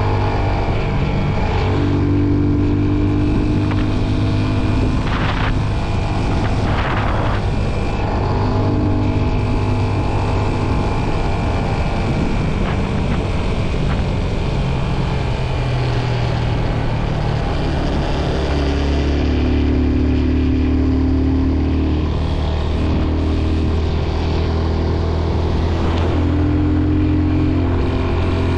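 Motorcycle engine running steadily under way. The engine note shifts lower about 19 seconds in.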